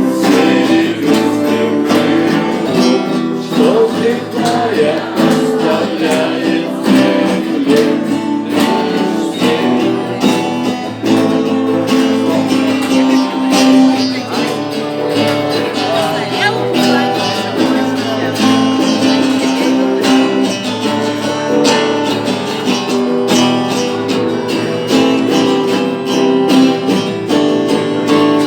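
Music played on strummed acoustic guitar.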